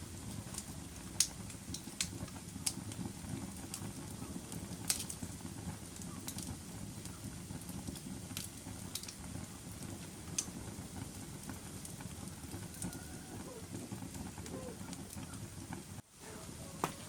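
Wood fire burning in a fireplace: a steady low rumble of flame with sharp crackles and pops every second or two. The sound briefly drops out near the end.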